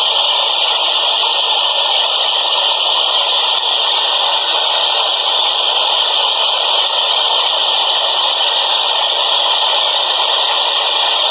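A subway train in motion: a loud, steady rushing and rattling noise that holds unchanged throughout, with no low rumble.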